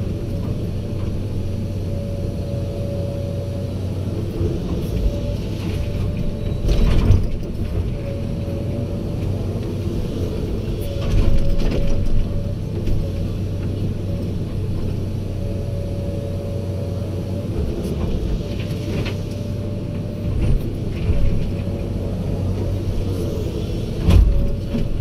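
Heavy diesel machinery, likely an excavator loading trucks, running steadily with a constant hum and a steady whine, broken by several brief clunks and knocks.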